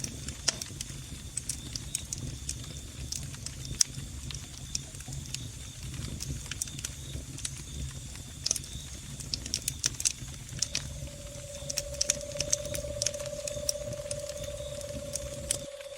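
Log fire crackling in a fireplace: frequent sharp pops and snaps over a low steady rumble, with a faint steady high cricket chirring behind. About two-thirds of the way in a steady mid-pitched tone begins and holds. Near the end the low rumble cuts off suddenly.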